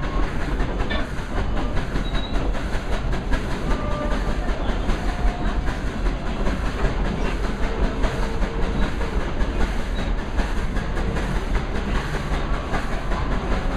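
The Dollywood Express narrow-gauge train rolling along the track, heard from aboard: a steady rumble with the clickety-clack of wheels over rail joints and a few short, faint squeaks.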